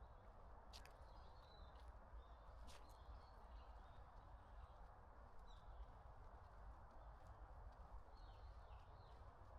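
Faint bird chirps, a few short calls scattered over a steady low background hiss, with a couple of sharp ticks.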